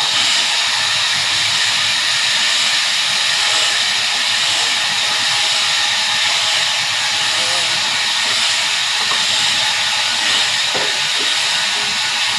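Large sawmill saw cutting through a red walnut log, a loud, steady hiss-like noise that holds without a break.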